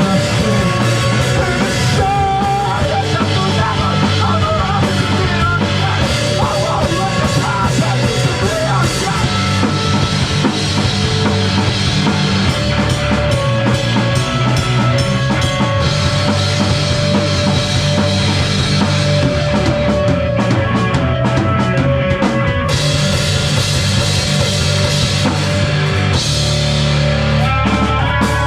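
A live rock band playing loudly, with a full drum kit and guitars.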